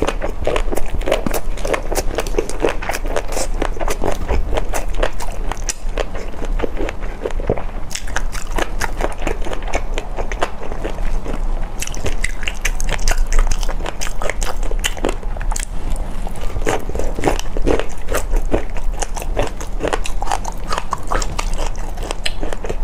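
Close-miked biting and chewing of crunchy food: a dense, irregular run of crisp crackling crunches with wetter chewing between them.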